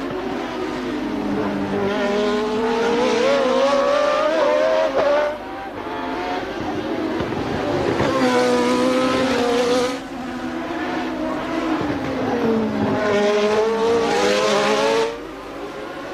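1988 Formula One car engines at full throttle, their pitch climbing for about five seconds at a time and then dropping sharply, three times.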